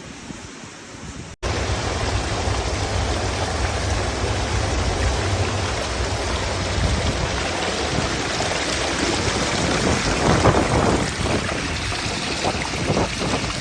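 Storm noise of heavy rain and wind, a loud, steady rush with a deep rumble underneath. It cuts in suddenly about a second in, after a quieter stretch of similar noise, and grows rougher with a few surges near the end.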